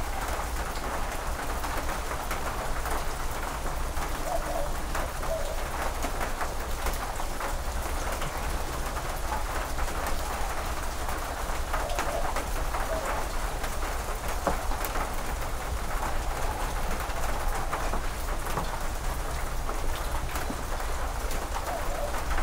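Steady rain falling, with many drops pattering on the corrugated metal porch roof and the wet yard. A dove coos faintly a few times in the background.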